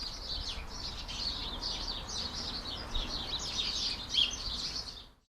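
Small songbirds chirping and twittering in a dense, continuous chatter of quick high notes, with one louder note about four seconds in, fading out near the end.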